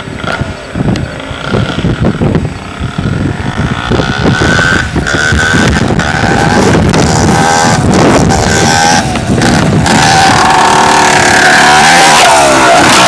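Dirt bike engine running and revving, growing steadily louder as it comes closer, loudest near the end.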